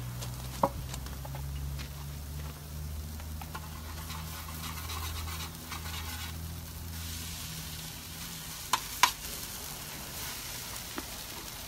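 Shredded hash browns sizzling as they fry in a pan on a propane gas cooker, stirred with a spatula. There are sharp metal clinks on the pan about a second in and twice in quick succession near the end, and a low steady hum under the first two-thirds.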